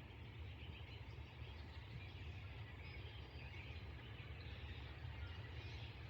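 Quiet outdoor ambience on a rainy day: a steady light patter of rain with a low rumble underneath and faint, scattered bird chirps.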